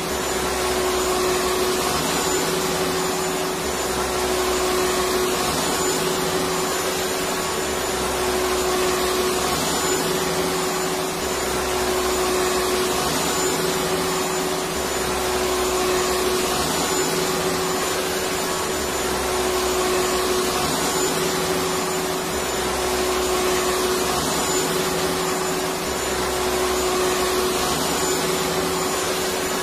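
Electric vacuum cleaner running steadily: a constant motor whine over a rushing hiss of air, with a low rumble that swells and fades every two to three seconds.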